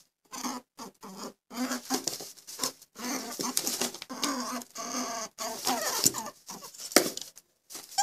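Echidna snuffling in short broken bursts, some with a low grunting tone, with a sharp click about seven seconds in.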